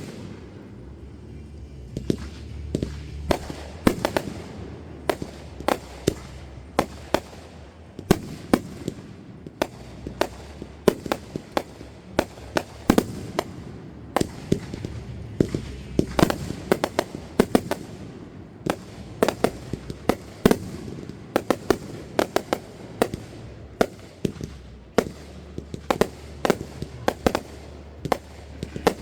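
Fireworks going off in a long run of sharp bangs and pops, several a second at times, over a low background rumble.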